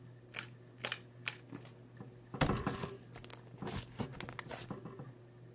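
Slime being worked by hand, giving irregular crinkly crackles and pops, thickest from about two and a half seconds in until near the end; the slime is stiff rather than stretchy.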